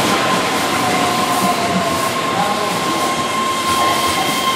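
Keihan 13000-series electric commuter train running over curved junction trackwork, a steady rumble of wheels on rail with a steady high-pitched wheel squeal from the curves. Higher squealing tones join about three seconds in.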